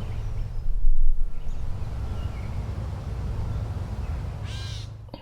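Low, steady rumble of wind that swells about a second in, with a crow cawing once near the end and a few faint bird chirps.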